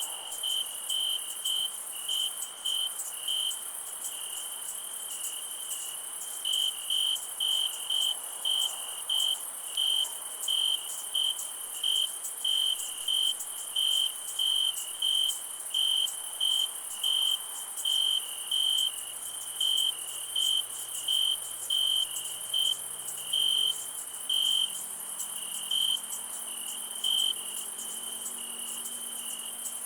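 Night insect chorus: a cricket chirping in short, evenly spaced pulses, about two a second, with a brief pause a few seconds in, over a steady high-pitched insect hum.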